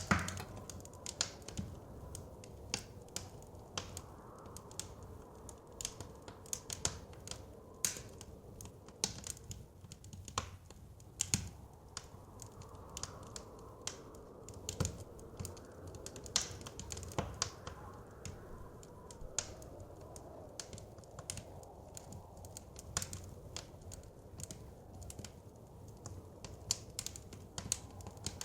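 Wood fire crackling and popping in a fireplace, with frequent irregular sharp snaps over a soft steady rumble of the flames, and a soft wind whooshing underneath.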